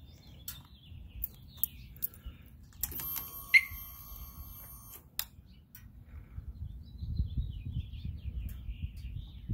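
Birds chirping, over a low rumble on the microphone that grows stronger near the end. About three seconds in, a steady electronic-sounding tone sounds for about two seconds, with a sharp falling chirp, the loudest sound, in the middle of it.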